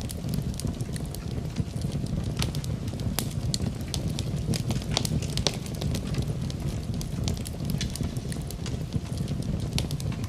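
Fire burning in a fireplace, crackling with many sharp, irregular pops over a steady low rumble of flames.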